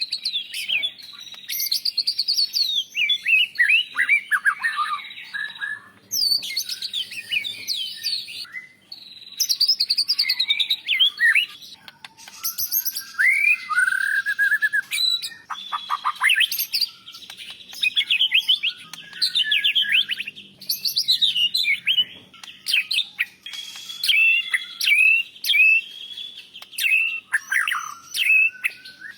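White-rumped shama (murai batu) singing: rapid, varied phrases of sweeping whistles and trills, rising and falling in pitch, in runs of a few seconds broken by short pauses.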